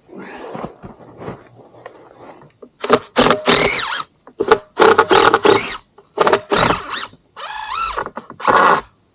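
Footsteps crunching and squeaking in cold, dry snow: about ten uneven steps starting some three seconds in, each a short squeaky crunch.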